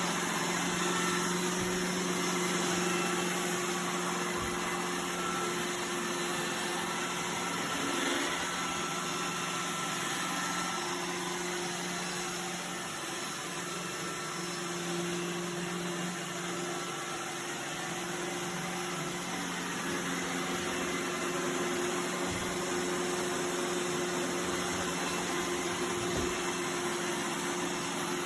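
Robot vacuum cleaner running, a steady motor and fan hum with a broad hiss, with a few faint knocks.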